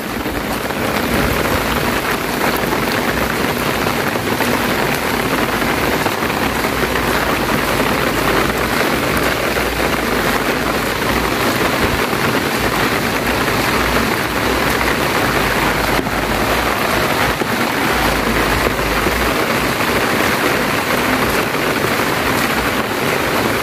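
Steady rain falling, a loud, even hiss. A low rumble comes and goes underneath.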